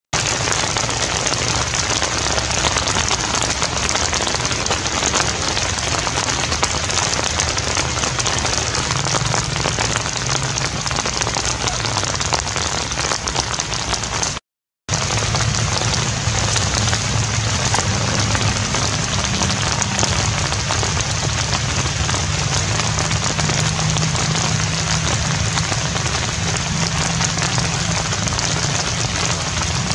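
Steady, even hiss of heavy rain, dropping out for a split second about halfway through.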